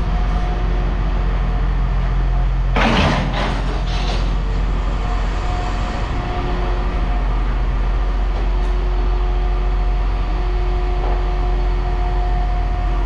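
A steady engine drone with faint steady whining tones, and about three seconds in, a loud clatter lasting about a second, typical of scrap metal set or dropped down.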